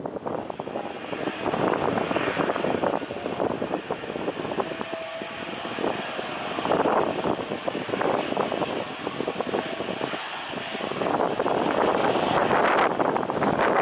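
Jet airliner's engines, a rushing noise that eases off in the middle and swells again near the end as the plane passes.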